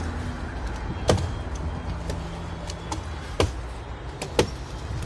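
Four sharp knocks, irregularly spaced and the last two close together, over a low steady rumble.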